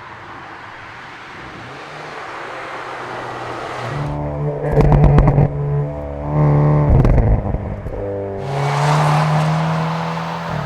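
Hyundai Kona N's turbocharged four-cylinder exhaust: a rising rush of noise, then a steady engine note broken twice by loud crackling, about five and seven seconds in, then a steady note again near the end.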